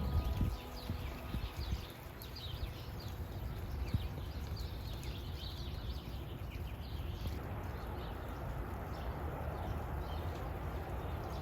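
Outdoor ambience of many short, high chirps from small animals, scattered irregularly over a steady low rumble.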